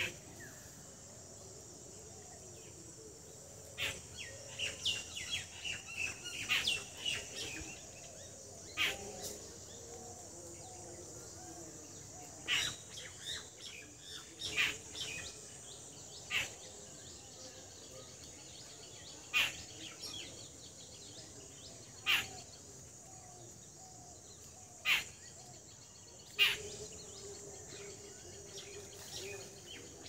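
Birds chirping: short, sharp calls come in a quick cluster early on and then singly every couple of seconds, over a steady high hiss.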